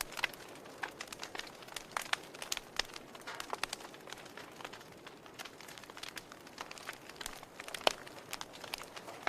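Wood fire crackling in a fireplace: irregular sharp pops and snaps over a low hiss, with one louder pop near the end.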